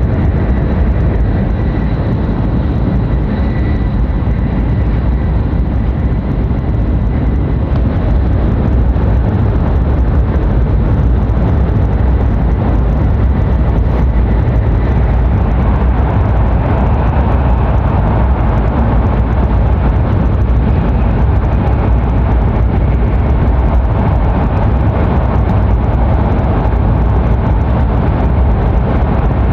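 Running noise of a Hokuriku Shinkansen E7/W7-series train at speed, heard inside the passenger cabin: a steady low rumble with a faint high whine in the first half, and a louder rushing noise from about halfway through.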